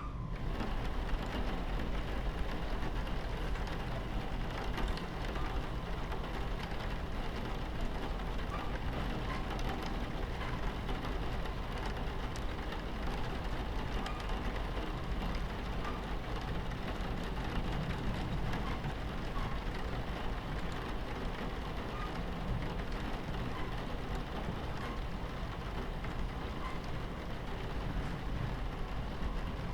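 Steady low rumble of a train running on the tracks, mixed with rain falling against the carriage window.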